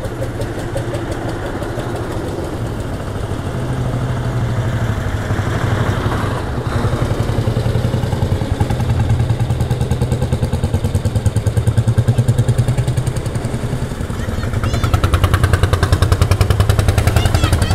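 Old tractor engines running at low speed, a steady low chugging with a fast even beat that swells louder as a tractor passes close, around the middle and again near the end.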